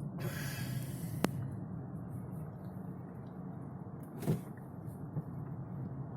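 Steady low road and engine rumble heard from inside a moving car. A brief hiss comes near the start, a sharp click just over a second in, and a short knock about four seconds in.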